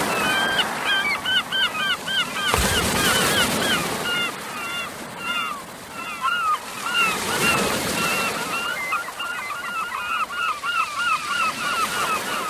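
A flock of geese honking, many short calls overlapping in quick succession, over a rushing noise that swells twice.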